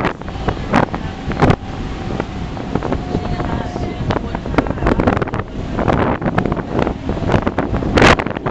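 Wind buffeting the microphone aboard a moving boat, over a steady rush of engine and water noise, with sharp thumps every so often.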